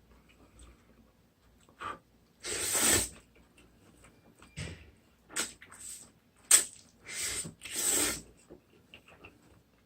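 Instant noodles being slurped and chewed up close: three long, hissing slurps (one about two and a half seconds in, two back to back near the end), with sharp smacking chewing clicks between them.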